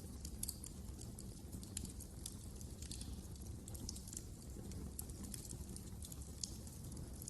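Wood fire crackling in a fireplace, with frequent sharp, irregular pops and snaps over a low steady rumble of the flames.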